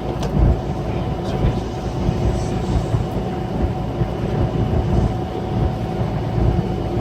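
Scania K340 coach engine running steadily under way, heard from inside the coach, with a low rumble and a steady drone.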